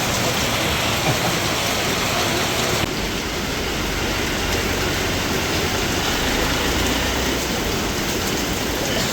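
Heavy rain falling steadily, with wind rumbling on the microphone; the sound shifts abruptly about three seconds in.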